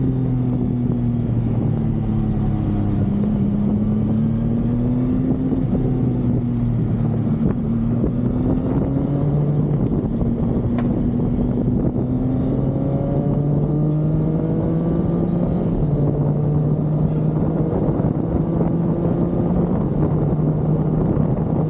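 Engine of a 675 SRR motorcycle running steadily as it is ridden, its pitch slowly rising and falling with engine speed and no sharp revs.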